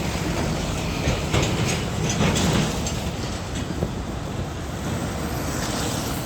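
A heavy vehicle passing with steady road noise and rumble, broken by irregular sharp knocks.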